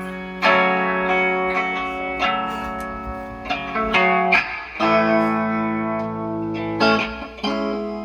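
Instrumental guitar music: held chords ringing out, changing every one to two seconds.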